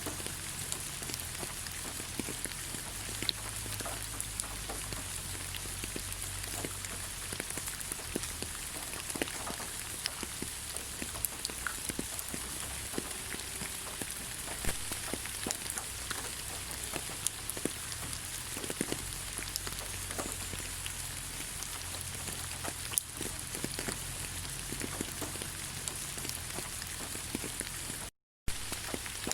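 Rain falling on leaves: a steady hiss with many separate drops ticking, cutting out to silence for a moment near the end.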